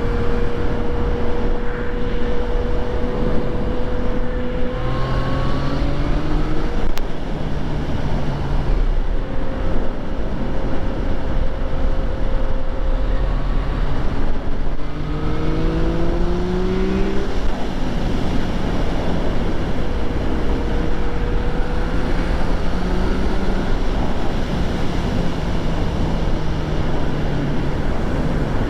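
Yamaha FZ-09's 847 cc inline three-cylinder engine under way on the road, holding steady revs and then rising in pitch a couple of times as it accelerates, with wind rushing over the microphone.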